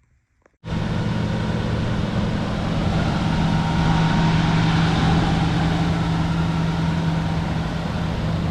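A car engine idling steadily with a deep, even hum. It cuts in suddenly about half a second in.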